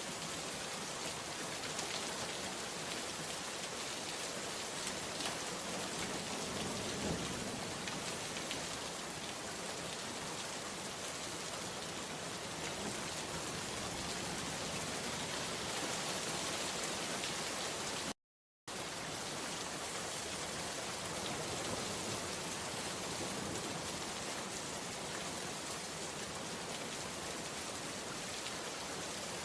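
Steady rain falling and pattering on surfaces, an even dense hiss throughout. About two-thirds of the way through, the sound cuts out completely for about half a second, then resumes unchanged.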